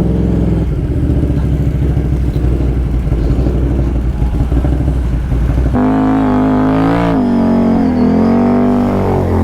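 Off-road ATV engine running, with a low pulsing drone that changes about six seconds in to a stronger pitched note that rises and falls, like the throttle being worked.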